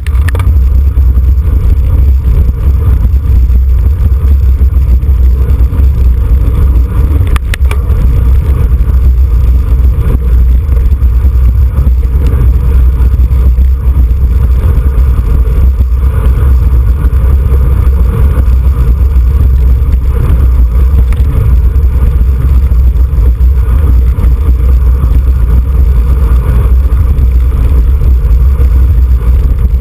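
Wind buffeting the microphone of a camera riding along on a racing bicycle: a loud, steady low rumble.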